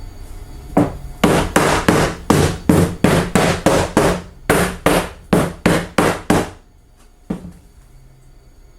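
Big rubber mallet striking a wooden workpiece: a run of about fifteen quick blows at roughly three a second, then a single blow about a second later.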